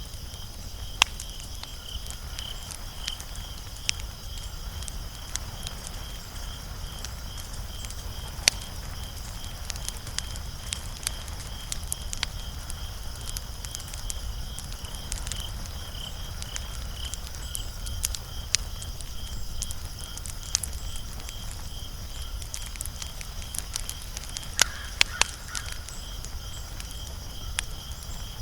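Wood fire crackling, with scattered sharp pops from the burning logs and a cluster of louder pops near the end, over a low steady rumble of the flames. A steady, high-pitched pulsing trill runs underneath.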